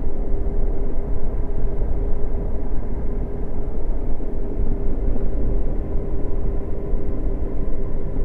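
Motorcycle engine running at steady revs, one even tone held throughout over a loud rumble of wind and road noise.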